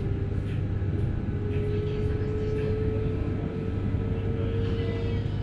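Electric airport train running, heard inside the carriage: a steady low rumble with a motor whine that rises slightly in pitch about a second and a half in, then holds.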